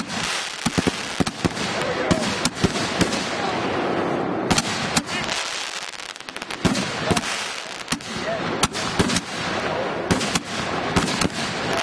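A fused rack of 60-gram consumer firework mortars going off in a rapid, irregular barrage of bangs over a continuous hiss, easing briefly about six seconds in before picking up again.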